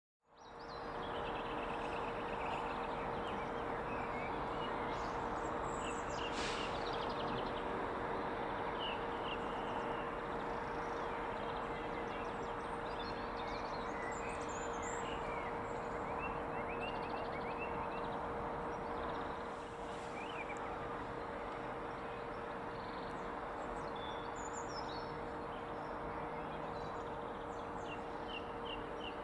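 Birds chirping over a steady outdoor background hiss with a constant hum; the sound fades in at the start.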